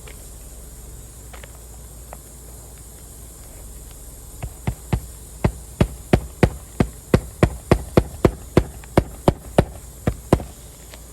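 Hammer driving roofing nails while a replacement roof piece is fastened down: a run of about twenty sharp strikes, roughly three a second, starting about four seconds in.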